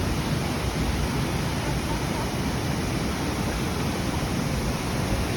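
Creek water pouring over a dam's waterfall: a steady, even rushing noise, the water running rough.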